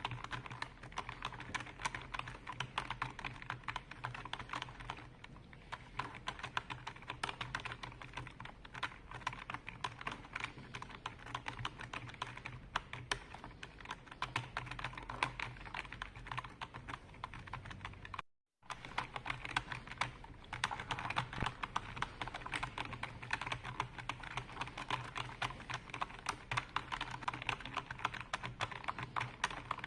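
Continuous typing on a computer keyboard: a dense, rapid run of key clicks over a faint steady low hum, broken by a brief total dropout about eighteen seconds in.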